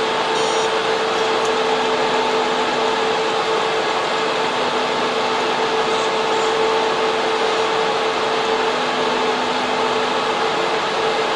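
Data center server room: server cooling fans and air-cooling units running steadily, a dense whooshing noise with a steady hum tone underneath.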